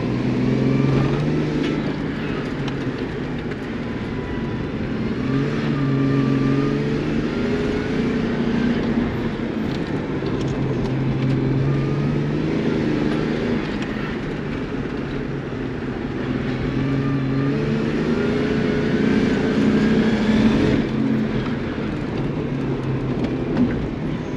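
Race car engine under hard driving, its pitch repeatedly rising and falling as it accelerates and backs off.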